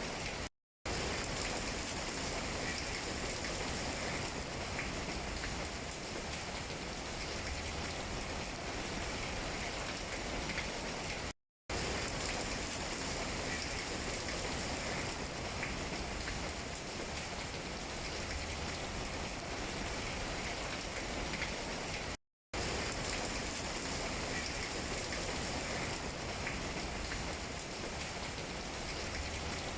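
Steady rain falling on tree leaves, an even hiss with faint scattered drop taps. It cuts out to silence for a split second three times, about eleven seconds apart.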